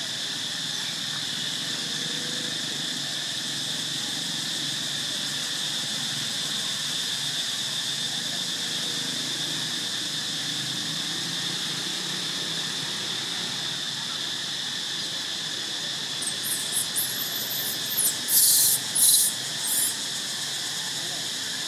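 Steady insect chorus droning throughout, then, near the end, a run of very high-pitched squeals from a young monkey, a few short cries followed by three loud ones.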